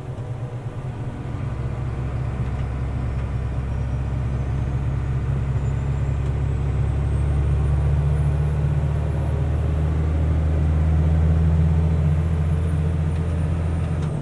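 Mercedes-Benz Unimog U500's turbo diesel engine pulling under load up an on-ramp, its low drone growing steadily louder, with a faint high whistle that climbs in pitch and then sinks again. The level drops away right at the end as the throttle eases.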